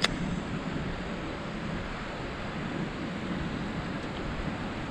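Steady rushing noise of river water and wind buffeting the action camera's microphone, with one sharp click right at the start.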